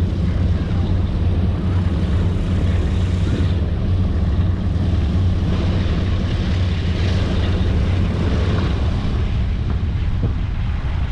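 Boeing B-17 Flying Fortress's Wright R-1820 Cyclone radial engines running steadily, a deep, unbroken drone.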